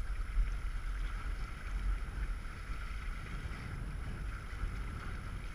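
Wind buffeting the microphone with a low, uneven rumble over a steady rush of water along the hull of a small sailboat under way.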